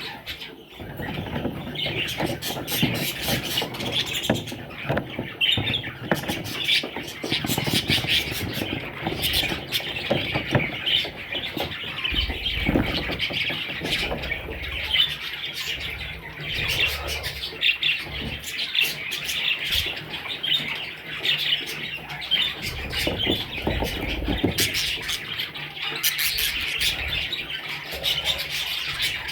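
Budgerigars chattering and chirping continuously, with many scattered sharp clicks and a couple of brief low rumbles.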